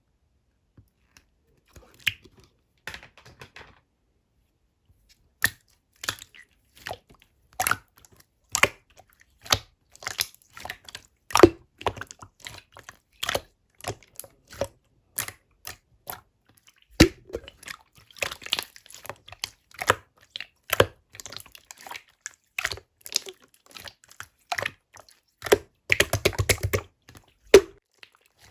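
Clear slime being squeezed and pressed by hand, giving irregular sharp pops and clicks as air pockets burst. Near the end comes a quick run of many pops in a row.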